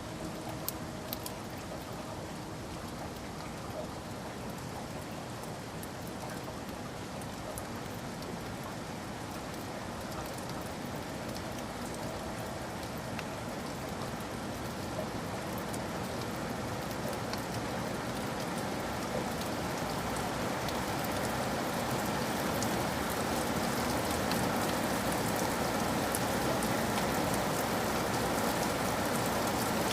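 Steady rain, a dense even patter of drops, growing gradually louder through the second half.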